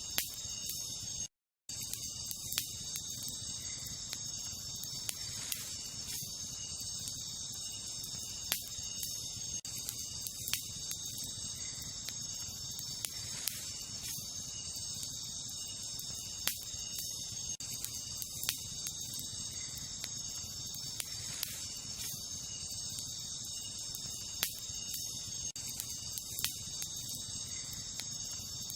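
Wood campfire crackling, with a sharp pop every two to three seconds, over a steady, high chorus of crickets and other night insects. The audio cuts out briefly to silence about a second and a half in.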